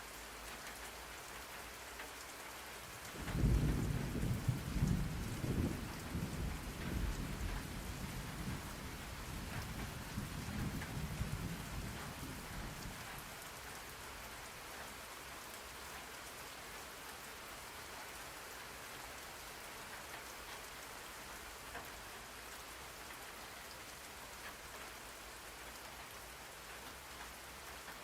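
Steady rain falling, with a roll of thunder that breaks in about three seconds in, deep and rumbling, then fades away over the next ten seconds.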